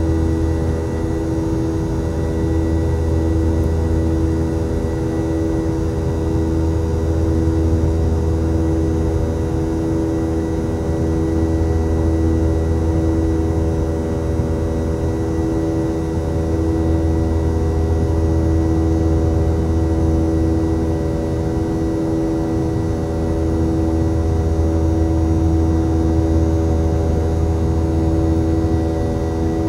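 Steady drone of a Boeing 717's rear-mounted Rolls-Royce BR715 turbofan engines heard inside the passenger cabin: a low hum under several steady engine tones.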